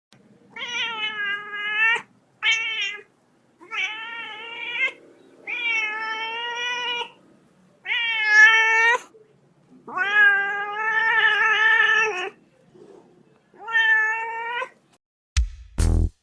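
Domestic cat meowing again and again: seven drawn-out meows, some lasting up to two seconds, with short pauses between them. Near the end, heavy thumping beats of electronic music begin.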